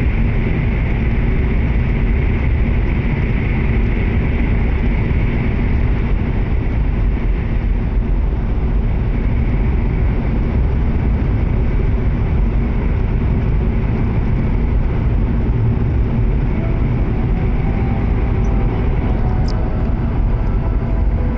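Steady running noise of a W7 series Shinkansen heard inside the passenger cabin: an even low rumble of the train travelling on the line, with a brief faint click near the end.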